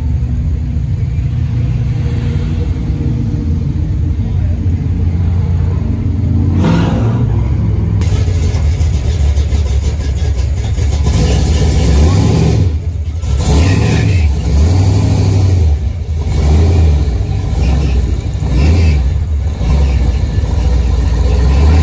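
Cars cruising at low speed with heavy engine rumble. About halfway through, an engine is revved several times, its pitch rising and falling in swells.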